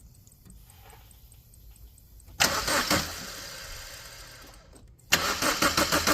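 Corsa C's 1.3 CDTI four-cylinder turbodiesel being started with difficulty: a first sudden burst fades away over a couple of seconds, then about five seconds in it fires again and runs with a fast, even rattle, a sound the owner puts down to a bad flywheel.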